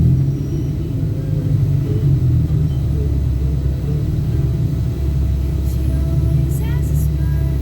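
Steady low rumble of a moving vehicle: engine and road noise heard during the ride.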